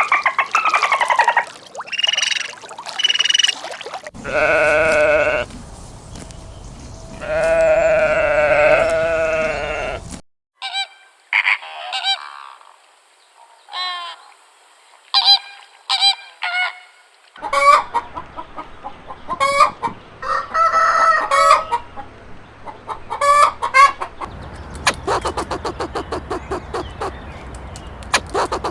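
Geese honking with other farm fowl calls: a run of pitched honks and short repeated calls in several sections that start and stop abruptly, ending in a fast rhythmic series of pulses.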